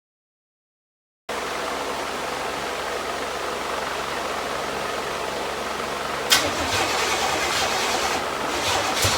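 After about a second of dead silence, a vehicle running with a steady rushing noise, with a sharp knock about six seconds in and a few clicks near the end.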